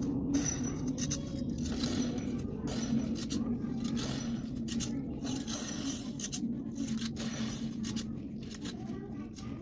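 Drawing tool scratching across paper in quick, irregular strokes, over a steady low hum.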